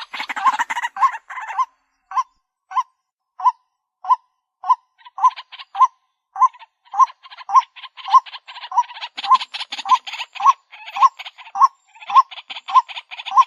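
White-breasted waterhen calling: a short note repeated over and over, about twice a second, with scratchy chattering between the notes. The chatter drops away for a few seconds near the start, leaving lone notes, then comes back densely for the rest.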